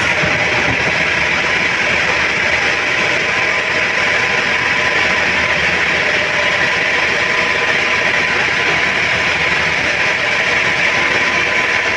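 Band sawmill running steadily: a loud, even mechanical noise with a faint steady hum running through it.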